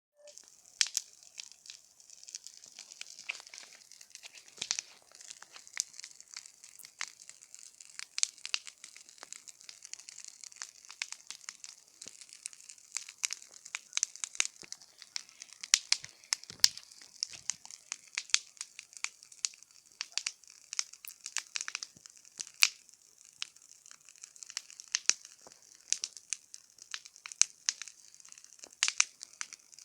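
Campfire burning and crackling: many irregular sharp pops and snaps over a steady hiss.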